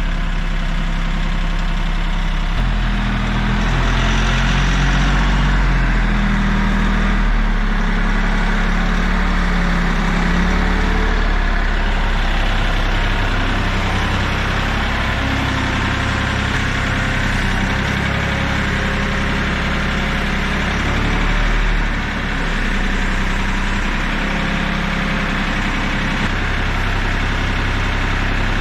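Kioti CK3510 compact tractor's three-cylinder diesel engine running steadily, its pitch shifting a little now and then, with a short dip in level about two-thirds of the way through.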